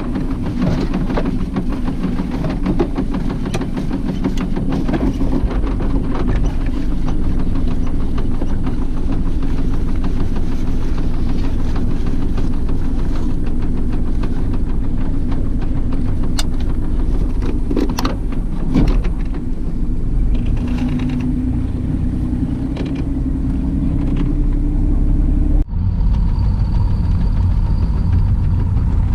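Boat motor running steadily under way, a loud low hum with a rushing noise over it. Near the end it cuts abruptly to a different steady rumble.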